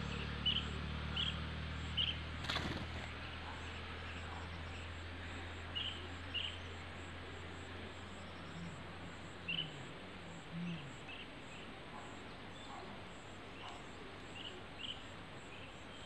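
Flycatcher giving short, high chirps, singly and in close pairs, every second or few seconds. A low distant drone fades away over the first half, and there is one sharp click about two and a half seconds in.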